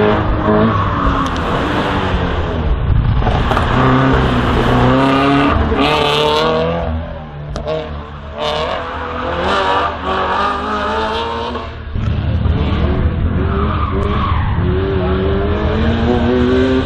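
Race car engine revving hard and on and off the throttle through a slalom course: the pitch climbs and drops repeatedly with gear changes and lifts, and the tyres squeal and scrub in the turns.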